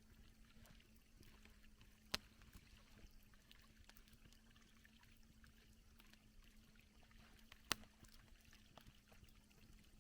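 Campfire crackling faintly, with two sharp louder pops, one about two seconds in and one near the end.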